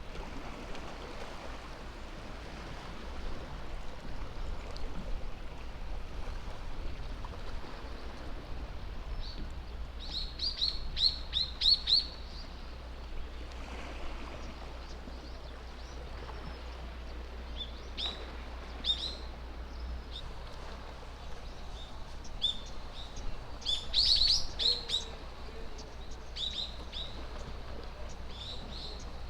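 Small birds chirping: runs of short, high notes about ten seconds in and again near the end, with single chirps between, over a steady low rumble.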